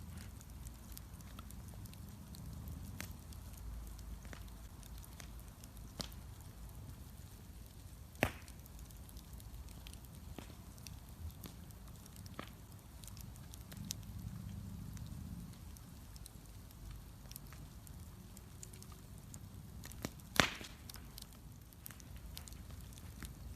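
Wood bonfire crackling with scattered small clicks over a low steady rumble, and two louder sharp pops, one about a third of the way in and the loudest near the end.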